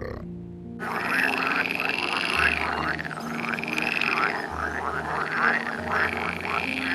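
Frogs croaking in a fast, continuous run of repeated calls, starting about a second in after a brief pause.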